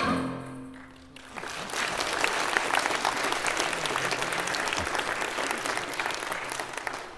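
The last notes of a musical piece die away, then an audience applauds, holding steady before tapering off near the end.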